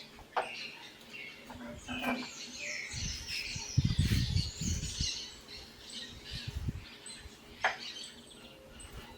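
Small birds chirping, with a few sharp clicks and a low rumble of handling noise about three to five seconds in.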